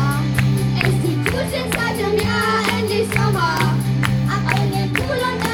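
A live band song: children singing over held bass notes and a steady drum beat.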